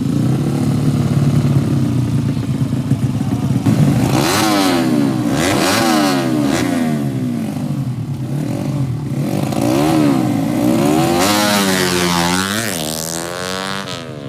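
Two 200cc drag-racing motorcycles at full throttle. For the first few seconds the engines run at a steady lower pitch. From about four seconds in, their pitches climb and drop again and again as they accelerate through the gears.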